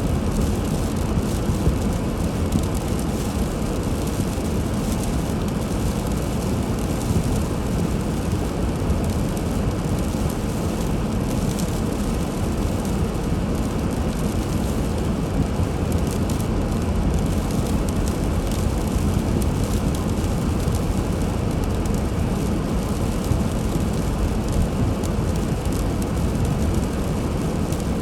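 A car driving: a steady rumble of engine and road noise that stays even throughout.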